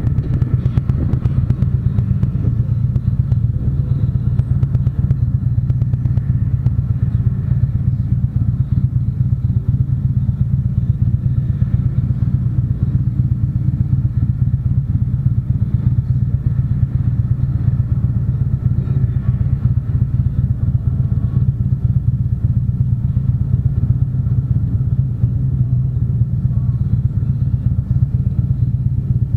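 Harley-Davidson motorcycle's V-twin engine running steadily, a constant deep drone with no change in pitch.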